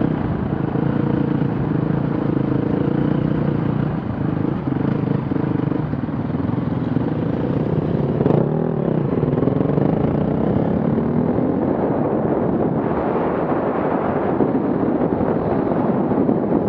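Off-road vehicle engine running steadily. About eight seconds in its pitch dips and then climbs again, and in the last few seconds a rougher rushing noise takes over.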